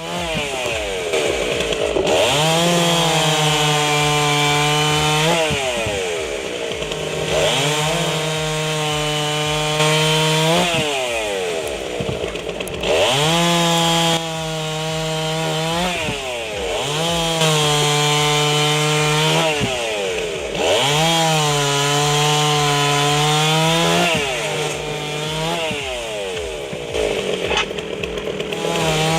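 Chainsaw-type saw cutting firewood logs. Its motor winds up to a steady high speed, holds through each cut and then drops away, about every three to four seconds.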